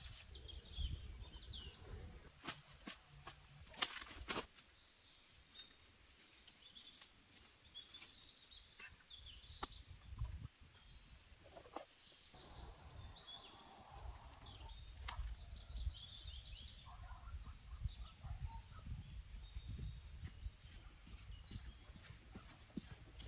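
Faint outdoor ambience with small birds chirping in short, scattered calls, a few sharp snaps or knocks in the first few seconds, and a low rumble of wind underneath.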